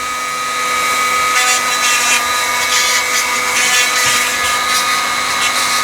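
Dremel rotary tool running at a steady high-pitched whine, its bit grinding against the parts of an old F wrench to clean them. The scratchy grinding comes in about a second and a half in as the bit bears on the metal.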